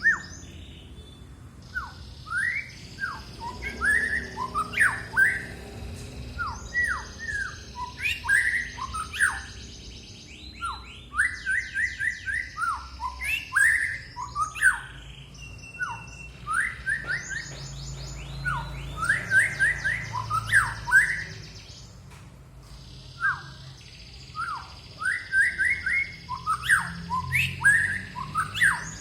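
A songbird singing a fast, varied song of short sweeping chirps in bursts of a few seconds, with brief pauses between bursts.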